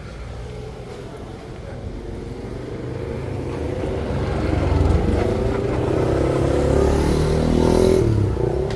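A motor vehicle's engine grows louder over several seconds and eases off near the end, as if it drives up and passes close by.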